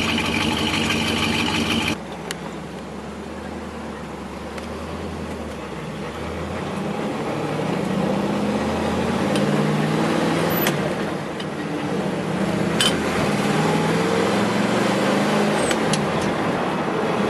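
1965 Chevelle Malibu's 350 V8 with dual exhaust pulling away under acceleration. Its revs climb, drop about eleven seconds in as the 4-speed manual is shifted, then climb again, with a few sharp clicks along the way. A louder rushing noise cuts off about two seconds in.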